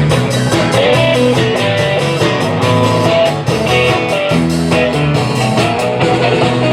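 A live band playing an instrumental passage, with electric guitar over bass and a steady drum beat.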